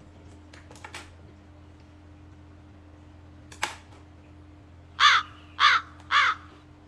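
A crow cawing three times in quick succession, about half a second apart, after a single sharp click.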